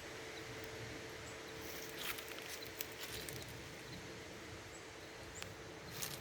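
Quiet outdoor background with a faint steady hum and a few scattered small clicks.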